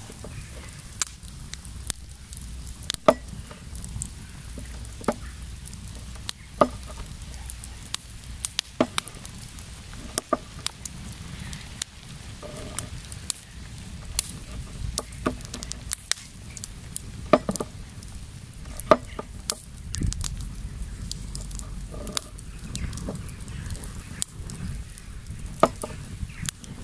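Campfire crackling, with sharp irregular pops and snaps every second or so over a low steady rumble.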